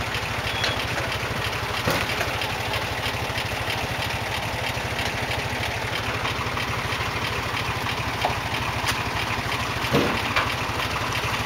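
Motorbike engine running steadily, its firing a fast low pulse under a constant hiss.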